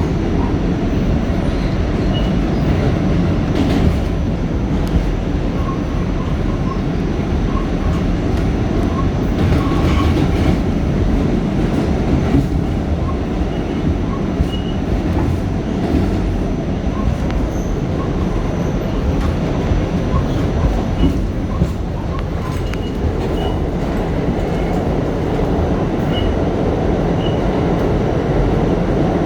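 R46 subway car riding along the track: a steady rumble of wheels and running gear, with scattered clicks of the wheels over rail joints.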